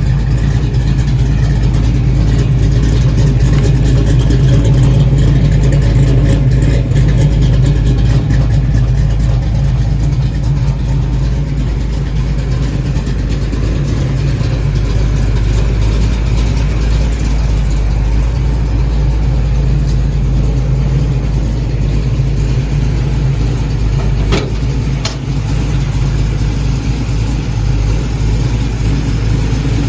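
Car engine running at a steady idle through a newly welded-in exhaust with Flowmaster stainless steel mufflers and an H pipe: a deep, even exhaust note that the owner finds no longer obnoxiously loud.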